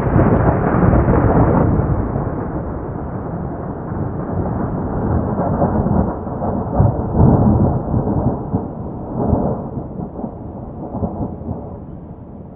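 A long, loud roll of thunder that breaks in suddenly, rumbles on with a few louder swells partway through, and slowly dies away.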